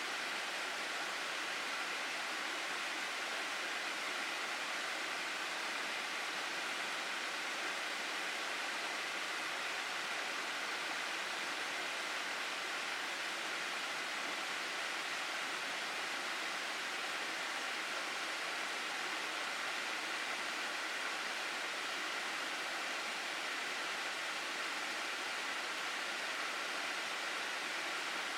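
Water rushing down a mountain gorge, a steady, even rush with no let-up.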